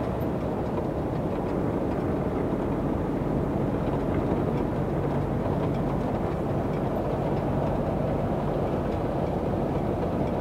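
Heavy truck driving at steady road speed, heard inside the cab: a constant diesel engine drone with a low hum under tyre and road noise.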